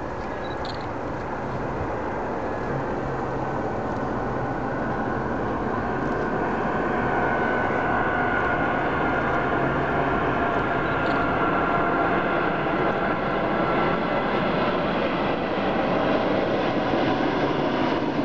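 Lufthansa Airbus A380's four Rolls-Royce Trent 900 jet engines as the airliner comes in to land, a steady engine rush that grows louder, with a faint whine that slides slowly lower in pitch.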